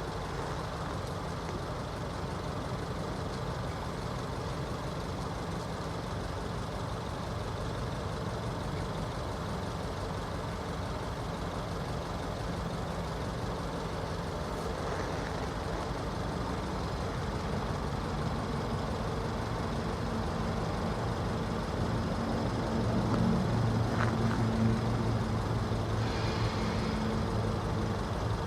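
Norfolk Southern diesel locomotive engine running: a steady low rumble that grows louder and takes on a pitched drone past the middle as the train draws near.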